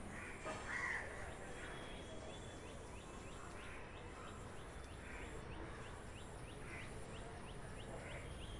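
Birds calling in the open: a few scattered calls over a run of short high chirps repeated about twice a second.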